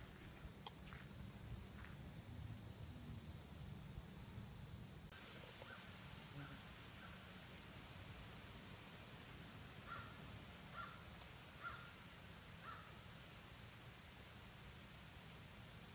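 Steady high-pitched drone of summer insects outdoors, which jumps suddenly louder about five seconds in. Near the middle a bird calls four times in quick succession.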